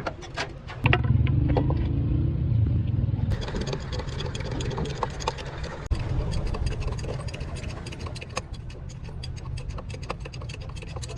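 An engine comes on loud about a second in and keeps running steadily, with many sharp metallic clicks and rattles throughout.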